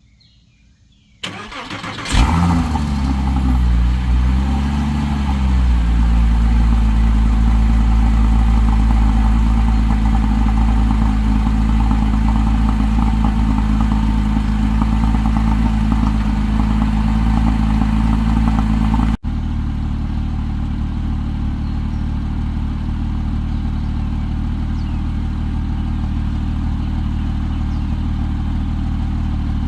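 Porsche Cayman S 3.4-litre flat-six started up: a brief crank, catching about two seconds in with a rev flare that rises, dips and settles into a steady idle. About two-thirds through it cuts abruptly to the same engine idling steadily, a little quieter.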